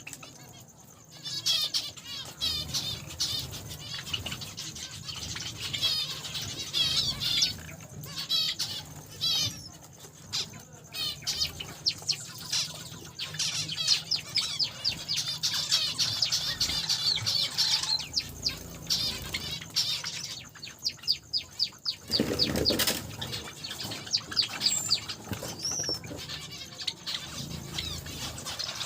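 A flock of small cage finches chirping constantly in quick, high repeated notes, with wings fluttering among them. A louder burst of noise comes about two-thirds of the way through.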